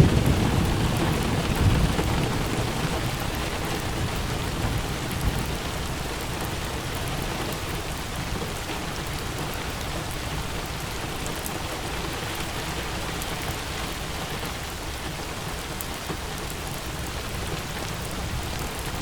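Steady rain falling, with a low rumble of thunder that fades away over the first few seconds.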